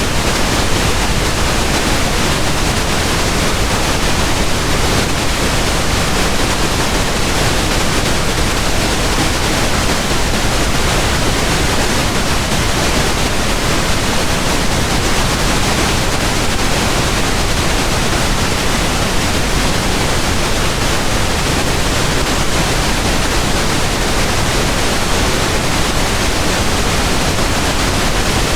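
Pink noise: a steady, unchanging hiss spread evenly across the whole range from low to high, with no events or changes.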